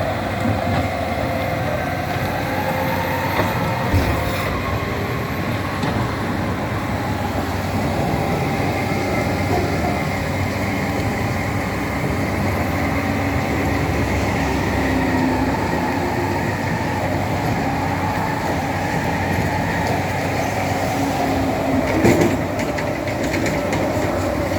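Tractor loader's diesel engine running steadily under work, with a faint wavering whine and a couple of short knocks, one about four seconds in and one near the end.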